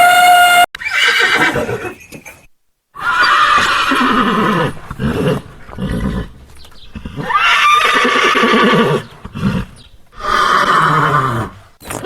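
Horse neighing three times, each whinny a long call that falls in pitch. At the very start there is a brief, loud, steady horn-like blare.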